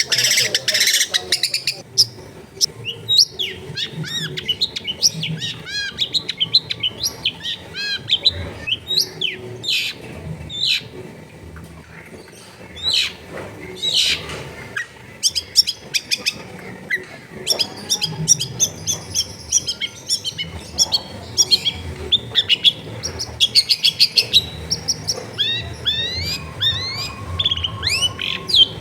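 Long-tailed shrike (cendet) singing a fast, varied chattering song of short chirps and trills, with brief pauses between phrases.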